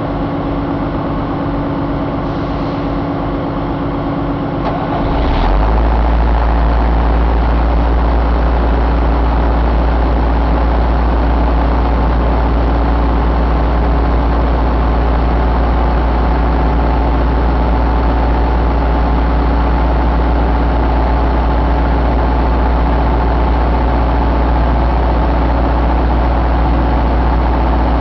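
Isuzu 4JB1 four-cylinder diesel engine running. About five seconds in it gets louder and settles into a steady idle with a deep low hum.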